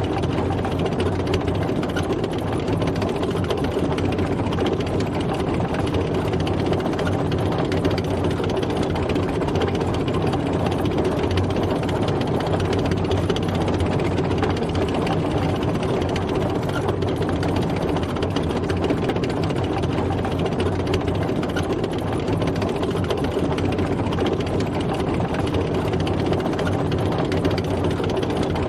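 Tank driving, its engine running steadily with the continuous rattle and clatter of the tracks.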